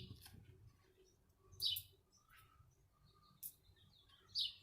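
A few faint, short bird chirps, one about one and a half seconds in and another near the end, over quiet background noise.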